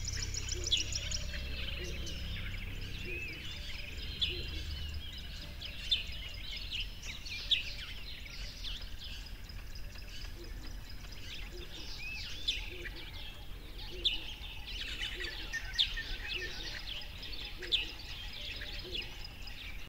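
Wild birds chirping and calling over a steady outdoor background, with louder sharp chirps standing out every couple of seconds.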